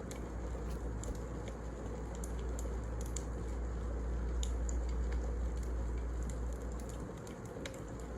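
Wood fire burning in a fireplace: a steady low rumble and hiss with irregular sharp crackles and pops from the burning logs.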